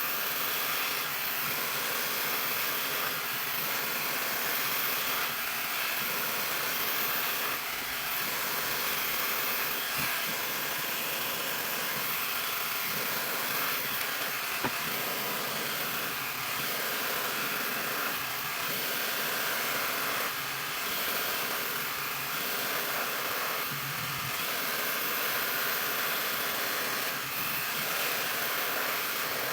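CrazyMar high-speed ionic hair dryer running steadily, a constant rush of blown air as it dries hair.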